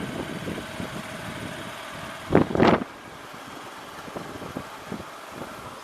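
Motorcycle running along the road, its engine and road noise making a steady rumble, with two short loud bursts of noise a little over two seconds in; after them it runs a little quieter.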